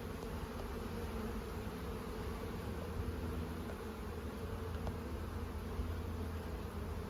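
A honeybee colony buzzing steadily around an opened hive as its frames are inspected.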